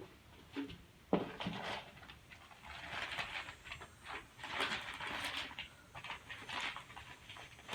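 Irregular rustling and scraping with light knocks as objects are handled, with two sharper knocks near the start.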